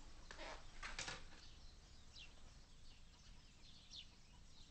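Near silence with faint, scattered bird chirps, a few short high notes every second or so.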